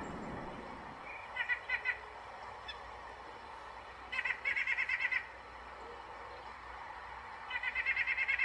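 Sandhill cranes giving rattling, rolling calls in three bouts of rapid pulsed notes, the longest about a second long, with the last bout running on past the end.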